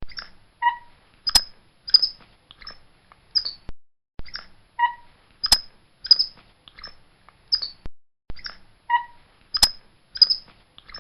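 Capuchin monkey giving a rapid series of short, high-pitched chirping calls, with a few sharp clicks among them. The same sequence repeats about every four seconds.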